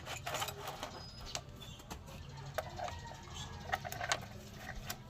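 Chickens clucking, mixed with scattered sharp clicks and knocks over a low steady hum.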